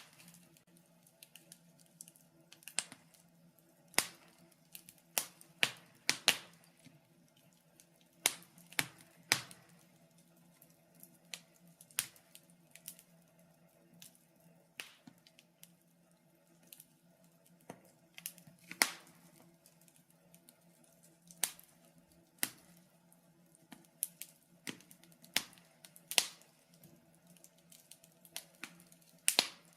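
Wood fire crackling, with irregular sharp pops and snaps of varying loudness over a faint steady hum.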